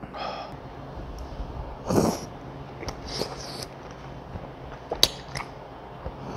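Close-up eating sounds of a man eating tteokbokki with chopsticks. There is a short squeaky sound near the start, a loud breathy burst about two seconds in, softer hissing slurps and sniffs, and a sharp click about five seconds in.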